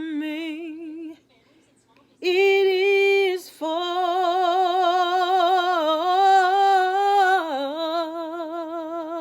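A woman singing an unaccompanied gospel song, ending it: a short sung phrase, a pause of about a second, then a long final note held with a wide vibrato.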